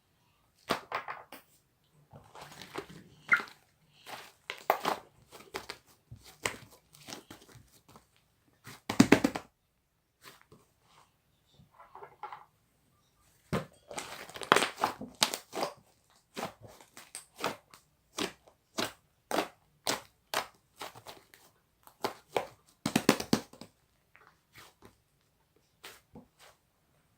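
Pink clay slime being squished and pressed by hand, giving irregular clusters of sharp crackles and clicks with short pauses between them.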